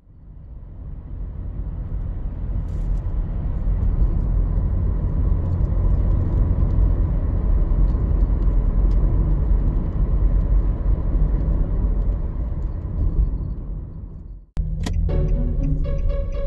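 Strong wind buffeting the microphone: a loud, low, rumbling roar that fades in over the first few seconds and cuts off suddenly near the end. Music with a clear beat of notes starts right after the cut.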